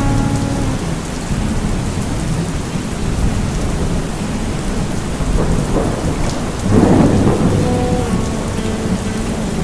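Steady heavy rain with low thunder rumbling, and a louder roll of thunder swelling up about seven seconds in.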